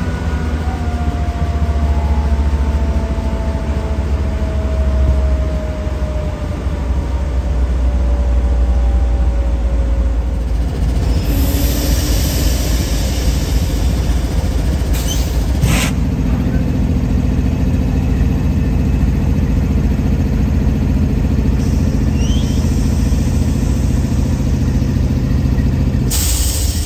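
A heavy vehicle engine running with a steady low rumble. A tone slides slowly downward in the first ten seconds, a burst of hiss comes about halfway through, then a couple of sharp clicks, and a steadier droning hum sets in for most of the second half.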